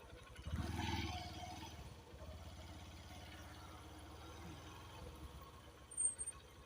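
Motorcycle engine running with a steady low pulsing, growing louder for a second or so about half a second in. A short sharp sound near the end.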